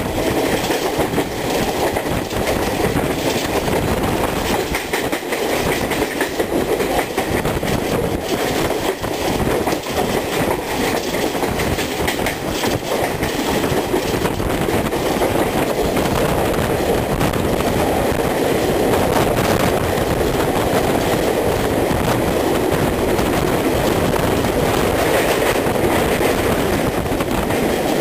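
Passenger train coaches running at speed, wheels clicking over rail joints, heard from an open coach window. About two-thirds of the way through, the sound turns into a steadier, slightly louder rumble as the train enters a tunnel.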